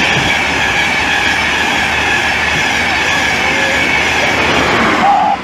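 A passenger train running fast through the station close to the platform: a loud, steady rush of wheels on rail and air, with a faint ringing from the rails, that starts suddenly and stops near the end.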